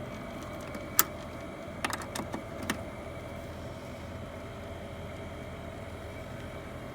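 A steady machine hum with a constant tone, broken by one sharp click about a second in and a quick run of lighter clicks and knocks about two seconds in.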